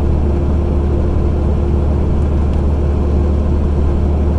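Semi-truck diesel engine pulling steadily uphill, heard from inside the cab as a loud, even low drone with a steady hum over it and road noise.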